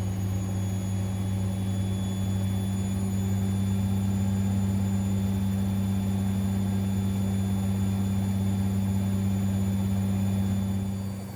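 Siemens Extraklasse XLS 140 A front-loading washing machine running with a steady low hum during its 90 °C boil-wash cycle; the hum cuts off suddenly near the end.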